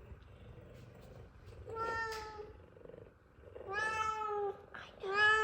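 F2 Savannah cat meowing loudly and insistently for food, three long meows about two, four and five seconds in, over a low steady purr from the other Savannah cat.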